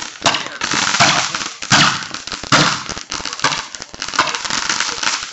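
Fireworks going off: a rapid string of bangs and crackling bursts, a strong one about every second with dense crackle in between.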